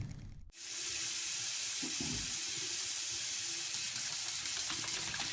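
A steady, even hiss starts abruptly about half a second in and holds to the end, with a faint low hum under it.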